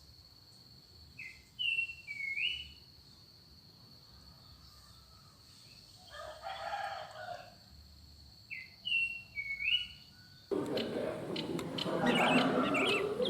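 Wild forest birds calling. A bird gives a short two-note call twice, over a steady high whine, with a lower, harsher call about six seconds in. About ten and a half seconds in, the sound cuts abruptly to a louder chorus of many birds chirping.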